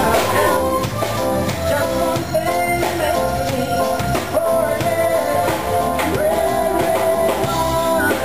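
Upbeat rock-and-roll style band music with a singer.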